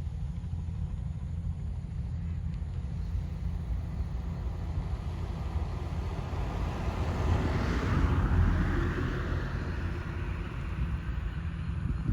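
Crop-spraying helicopter passing, its rotor and engine noise swelling to a peak about eight seconds in and then fading, over a steady low rumble.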